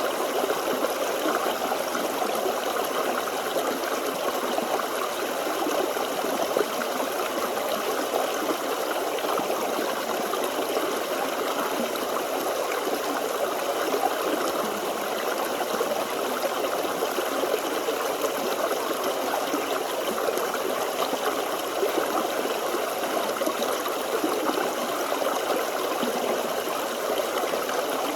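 Forest stream flowing, a steady rushing and trickling of water over stones.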